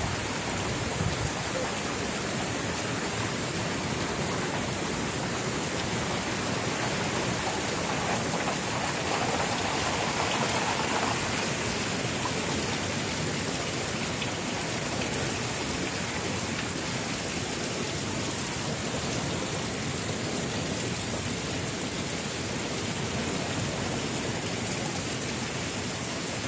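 Heavy rain falling in a steady downpour, a dense, even hiss that swells a little about ten seconds in.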